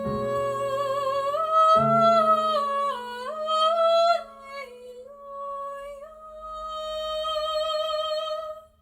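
A high solo voice sings a slow vocal line with vibrato over sustained piano chords. A new chord is struck about two seconds in. The voice ends on a long held note that stops near the end.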